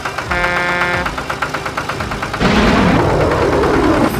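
A fast rhythmic pulsing with a brief chord of steady tones, then, about two and a half seconds in, a loud rumbling blast lasting over a second, like an explosion or crash.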